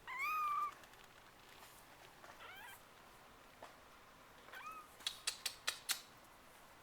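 Two-week-old RagaMuffin kittens mewing: one loud, high mew at the start, then a few fainter short mews. About two-thirds of the way through there is a quick run of five sharp clicks.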